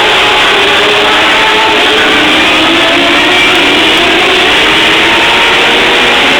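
Several TQ midget race car engines running together at racing speed, their pitches wavering up and down against one another.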